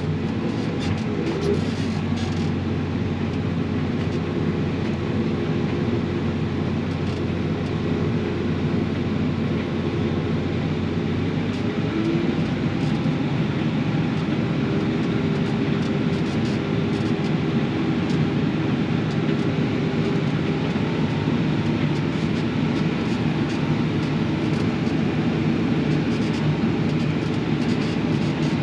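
Combine harvester running steadily while harvesting soybeans, heard from inside the cab: a constant engine and threshing drone whose low tone changes about twelve seconds in.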